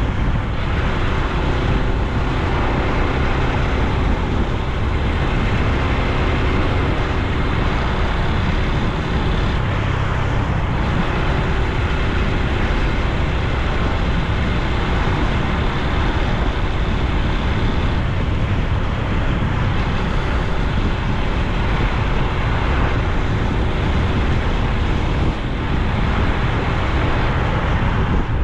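Honda Super Cub C125's air-cooled single-cylinder four-stroke engine and exhaust running steadily while the bike rides along, mixed with road and wind noise.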